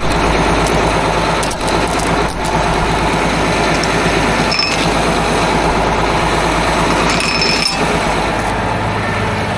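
Farm tractor engine running steadily under a dense mechanical clatter, with two brief high squeaks midway and near the end.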